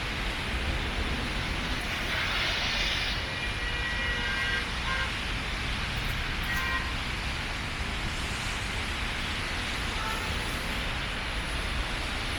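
Steady rain with a vehicle running nearby, heard as an even hiss. A few short high tones sound around a third of the way in and again briefly later.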